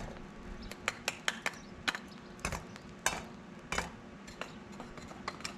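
Irregular metal clinks and knocks, a dozen or so, a few ringing briefly: tongs working against a crucible of leftover copper scrap and junk.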